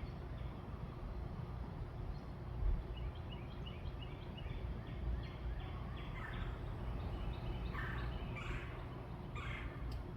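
Birds calling over a steady low rumble. A run of quick, high chirps comes first, followed by several louder, harsher calls near the end.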